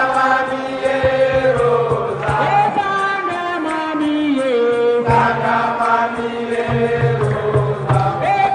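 Music: several voices chanting together in long held notes that step from pitch to pitch, over a low accompaniment, in the style of Senegalese assiko.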